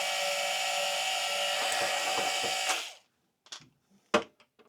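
Small power tool motor running with a steady, even whine, then cutting off about three seconds in. A few light clicks and taps follow.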